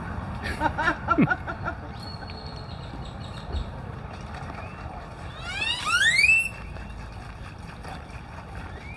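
Bird calls: a quick run of short chirping notes near the start, then one loud whistled call sweeping upward in pitch about six seconds in.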